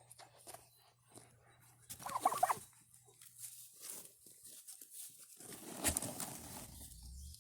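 A short animal call about two seconds in, followed by a longer stretch of rustling and scraping.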